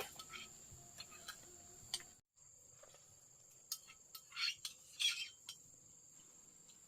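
Steady high-pitched drone of crickets, cut off briefly by a short dropout a little past two seconds in, with a few soft clicks and scrapes in the middle-to-late part.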